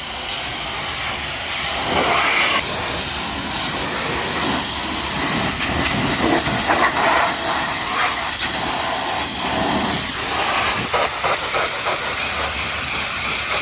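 Pressure washer's high-pressure water jet spraying against a truck's bodywork, a steady hiss that wavers in level.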